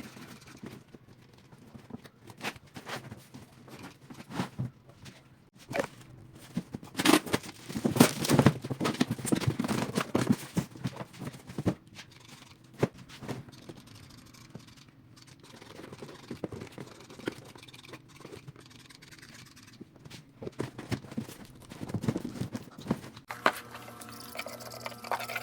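Cardboard being handled and worked: irregular scrapes, taps and knocks, busiest about a third of the way in and again near the end.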